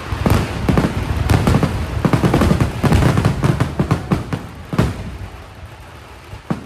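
Vedikkettu fireworks going off in a rapid barrage of loud, overlapping bangs. The barrage thins to scattered single bangs after about five seconds.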